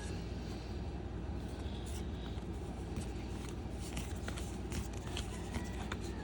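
Baseball trading cards being flipped through by hand: scattered light clicks and short slides of card stock over a steady low hum.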